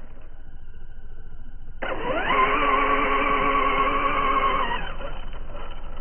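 RC drag car's 4.5-turn electric motor whining as the car launches down the strip. The pitch rises quickly from about two seconds in, holds steady, then fades out near the end.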